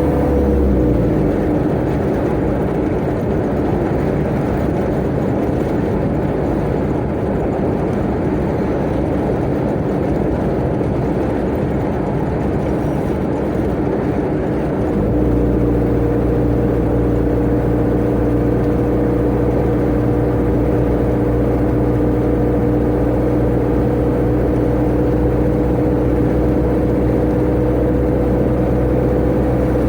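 Tata Ace mini truck's engine and road noise heard from inside the cab at speed. About a second in the engine note falls away, leaving rough road and wind noise; about halfway a steady engine drone comes back in and holds.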